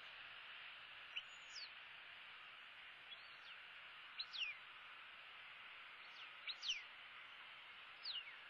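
A bird's high, thin chirps, each gliding steeply down in pitch, come in short clusters every second or two over a steady background hiss.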